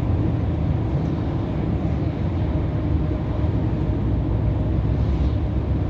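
Scania R500 truck's V8 diesel engine and road noise heard from inside the cab while driving: a steady low rumble.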